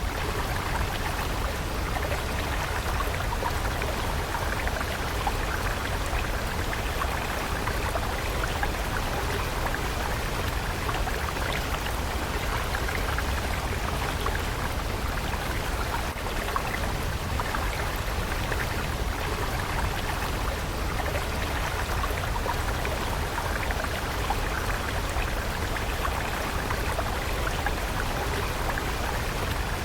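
A stream of water flowing steadily, a constant splashing and trickling.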